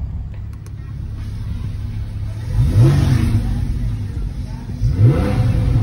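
Porsche 911 Carrera 4S flat-six engine idling, revved twice: two short blips about two seconds apart, each rising and falling back to idle.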